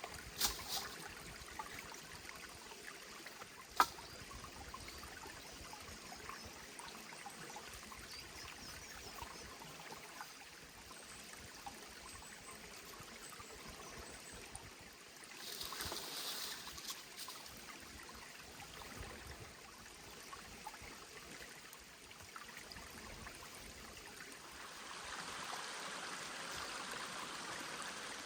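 A forest stream running steadily, faint. A single sharp knock about four seconds in, and a brief rustle around the middle.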